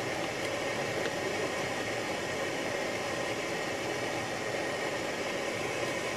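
Steady noise inside a car's cabin driving slowly up an unplowed road through thick snow: engine and tyres on snow blending into an even hiss, with a couple of faint ticks in the first second.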